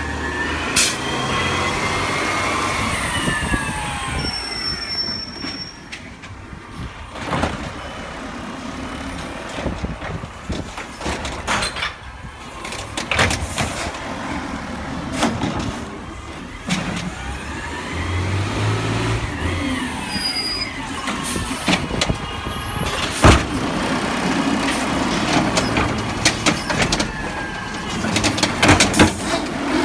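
Garbage truck working, its engine and hydraulics whining up and back down twice, amid repeated knocks and bangs.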